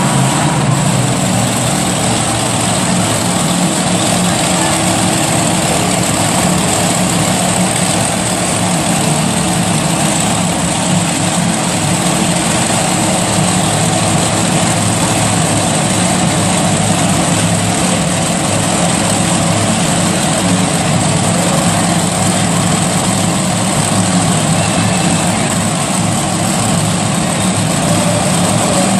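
Monster truck engine running loud and steady, a continuous heavy drone with no clear revs or pauses.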